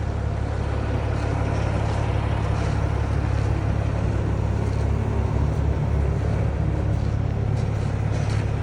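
Kenworth T600 dump truck's diesel engine running steadily, a low, even rumble.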